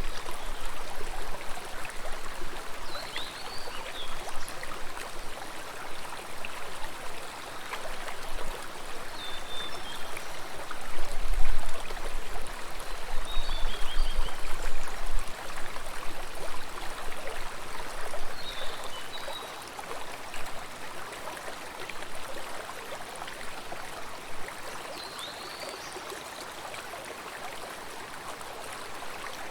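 Flowing stream water, a steady rushing and splashing, with a few short high chirps now and then.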